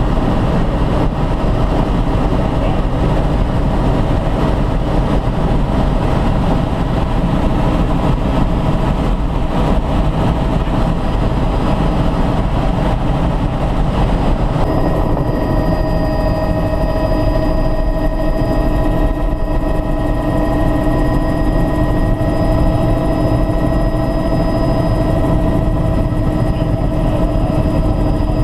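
Helicopter engine and rotors running steadily. About halfway through, a set of steady whining tones comes in over the deep rumble.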